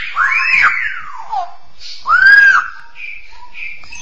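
Straw-headed bulbul (cucak rowo) singing: two loud phrases of rich, arching whistled notes, the first just after the start and the second about two seconds in, with softer short notes between.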